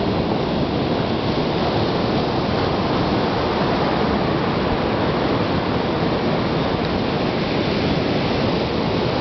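Steady noise of ocean surf, with wind on the microphone.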